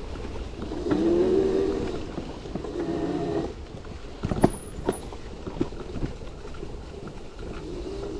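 72V electric dirt bike (modified Razor MX650) riding a trail: its motor whines, rising and falling in pitch twice in the first few seconds, then the bike knocks and rattles over rough ground, with two sharp knocks around the middle.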